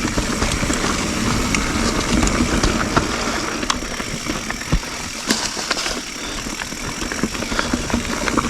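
YT Jeffsy full-suspension mountain bike rolling fast over dirt singletrack: a steady rush of tyre and wind noise with scattered sharp clicks and rattles from the bike.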